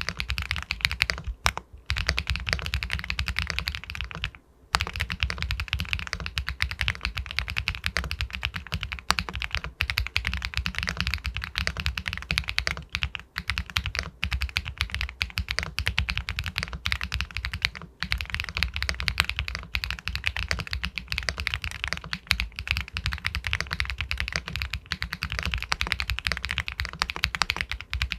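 Fast, continuous typing on an Epomaker Galaxy 80 Pro aluminium mechanical keyboard with White Jade linear switches: a dense stream of keystrokes with a pebble-like clack, broken by two brief pauses in the first few seconds.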